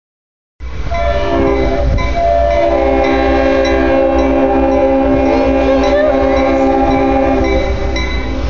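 Train horn sounding one long chord of several steady notes together for about seven seconds, then fading near the end. A voice is heard briefly over it near the middle.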